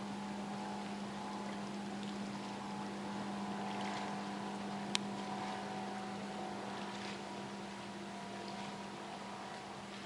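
A motorboat's outboard engine running with a steady drone on the river, swelling a little midway, with one sharp click about five seconds in.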